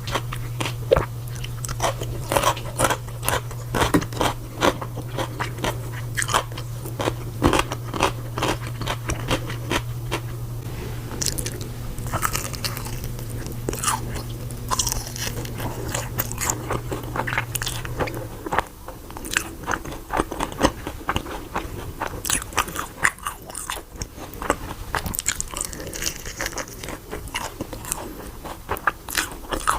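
A person biting and chewing crunchy food close to the microphone, with many crisp crunches. A low steady hum stops about eighteen seconds in.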